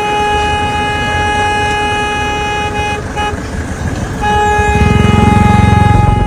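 A vehicle horn blaring in street traffic: one long blast of about three seconds, a short toot, then another long blast, with a vehicle's engine rumbling louder near the end.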